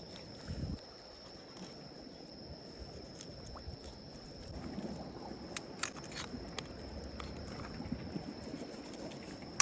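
Wind and water ambience: a low, even rumble, a steady thin high-pitched whine, and a few short clicks a little past the middle.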